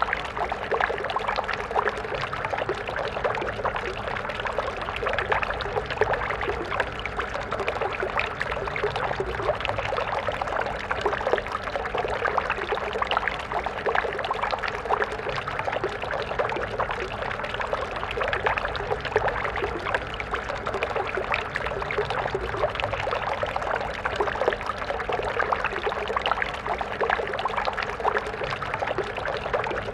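Stream water flowing steadily, a dense, even babble and splashing of running water with no pauses.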